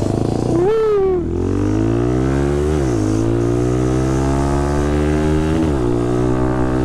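Motorcycle engine pulling hard through the gears. Its pitch climbs steadily and drops sharply at an upshift about three seconds in and again near six seconds, then climbs again. A short falling whoop is heard about a second in.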